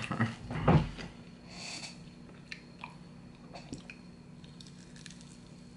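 Close-up mouth sounds of eating a fried chicken wing: biting and chewing with small wet clicks. A brief burst of the man's voice comes in the first second and is the loudest sound.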